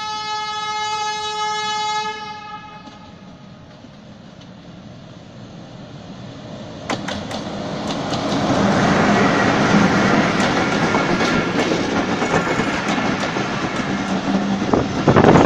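Diesel locomotive horn sounding one long blast of about two seconds. The approaching train's engine hum then builds, and from about seven seconds in, wheels clatter over the rail joints, growing loud as the locomotive and passenger coaches pass close by.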